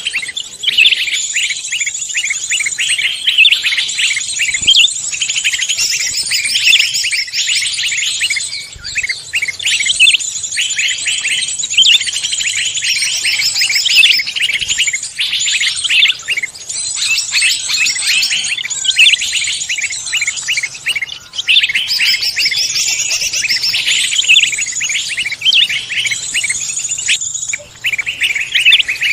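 A dense chorus of many songbirds chirping and trilling at once, rapid high-pitched calls overlapping without a break.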